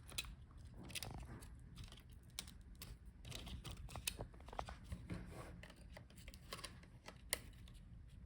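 Faint, scattered small clicks and crinkles of the cover over an HP EliteBook 850 G8 laptop's memory slots being handled and lifted away.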